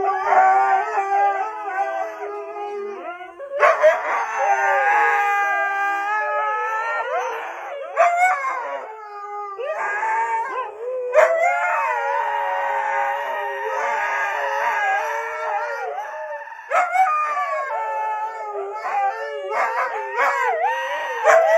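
Dog howling: a series of long, wavering howls with short breaks between them.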